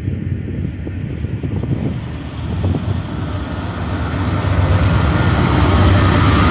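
Freight train passing: wheels clicking over the rail joints, then a diesel locomotive's engine rumbling and growing louder from about four seconds in as the units come by.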